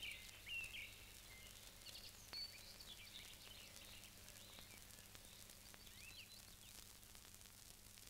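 Faint birds chirping in short, quick calls that die away about six seconds in, over a steady low hum.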